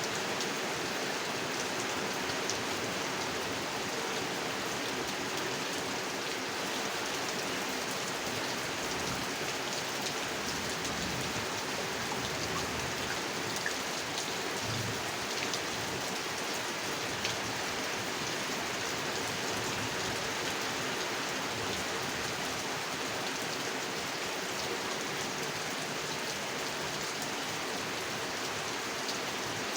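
Steady rain falling on a pond: an even hiss with scattered raindrop ticks.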